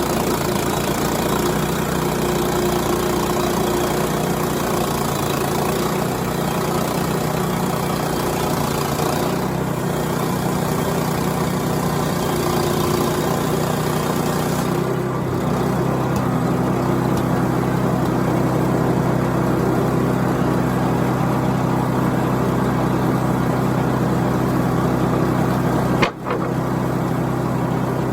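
Woodland Mills portable bandsaw sawmill's gas engine running steadily under load as the band blade cuts a poplar log into boards. There is one sharp click and a brief dropout near the end.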